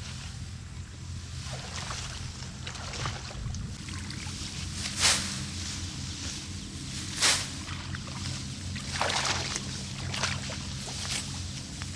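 A small engine running steadily, with short loud swishing noises over it, the loudest about five and seven seconds in.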